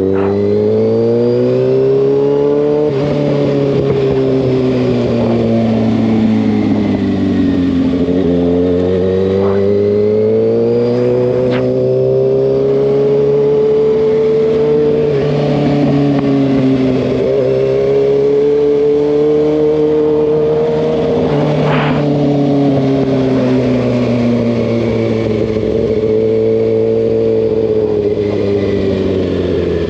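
Kawasaki ZX-6R's inline-four engine pulling on the move. Its pitch climbs and falls several times as the throttle is rolled on and off, with a sudden drop about three seconds in like a gear change. A few brief clicks sit over the engine.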